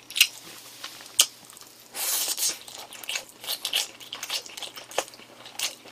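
A mouth chewing a bite of boiled pork dipped in ssamjang, close to the microphone: wet chewing with many short clicks, loudest about two seconds in.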